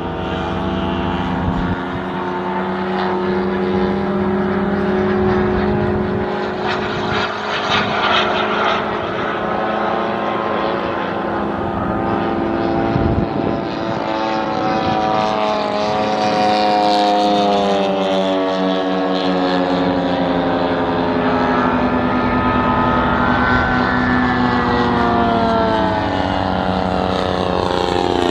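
Moki four-stroke radial engine of a large-scale RC Corsair running in flight. Its pitch rises and falls as the plane makes passes, with a quick swoop about 13 seconds in.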